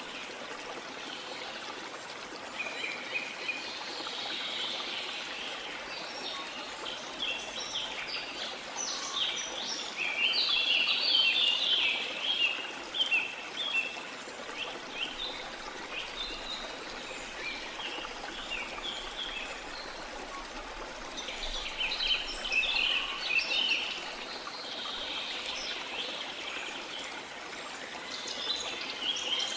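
Steady rush of running water, a stream or waterfall, with birds chirping over it in quick clusters of short, high notes that come and go, loudest a few seconds in, around ten seconds in and again past twenty seconds.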